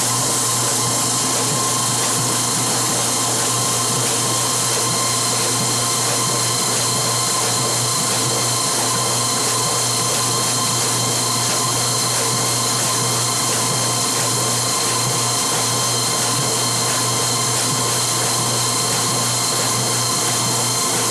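A Maytag washing machine about seven years old running with a loud, steady mechanical whir and a thin high whine through it. This is a newly developed noise the owner calls bad, with its cause not yet known.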